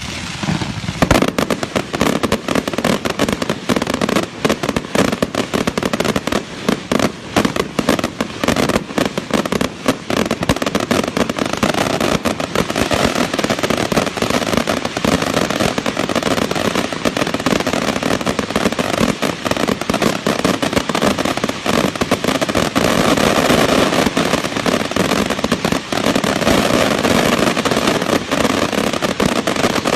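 Firecrackers going off rapidly and without a break, a dense run of small sharp bangs crowding together.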